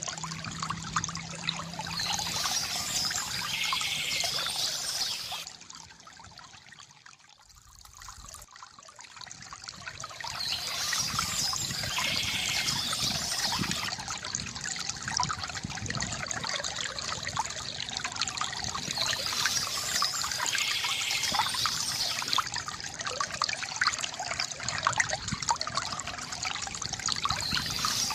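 Water trickling and splashing from a bamboo fountain spout. It dips away sharply for a few seconds about a fifth of the way in, then returns to a steady flow.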